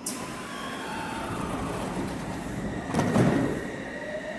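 Odakyu commuter electric train standing at an underground platform with its doors open: a steady hum of on-board equipment with faint tones, and a louder hiss about three seconds in.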